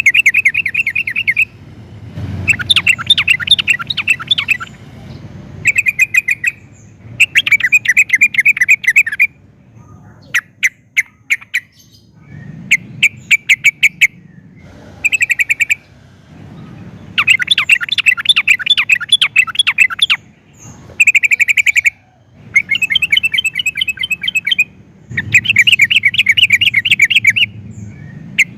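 Yellow-vented bulbul (trucukan) singing: repeated phrases of rapid, fast-trilled notes, each lasting one to three seconds, with short pauses between them.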